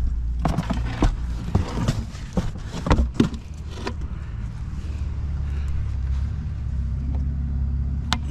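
Truck engine idling steadily, with sharp clinks and knocks of scrap items being handled through the first four seconds or so.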